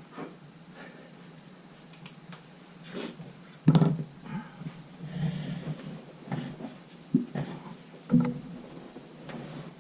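Small objects being handled and set down on a workbench: irregular knocks and clacks, the loudest about four seconds in and again about eight seconds in, with a short rustle between them.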